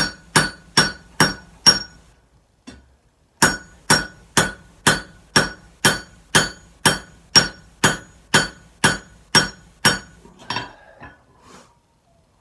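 Hand hammer forging a hot Damascus steel billet on an anvil: steady blows of about two a second, each with a bright ring. The blows stop for about a second and a half after the first few, then run on in a long series, ending with a few lighter sounds near the end.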